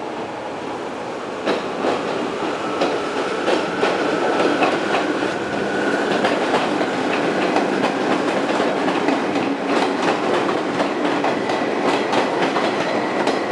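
Izuhakone Railway 5000-series electric train pulling out and passing close by, its wheels clicking over the rail joints in a repeated clickety-clack that gets louder about a second and a half in, with a thin whine rising slightly in pitch.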